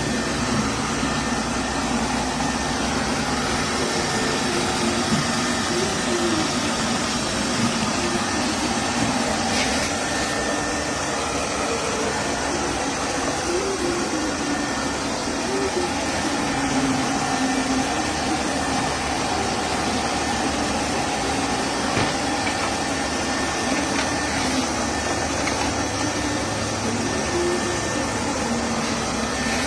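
LEFANT M210P robot vacuum cleaner running, a steady suction-motor noise whose low hum wavers slightly in pitch.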